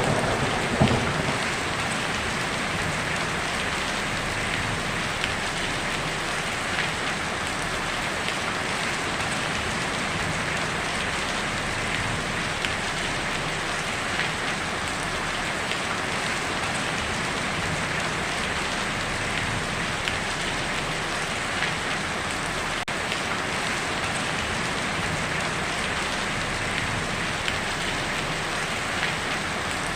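Heavy rain drumming on a tin roof: a steady, even patter with scattered sharper drop ticks. The rumble of a thunderclap dies away in the first second or so.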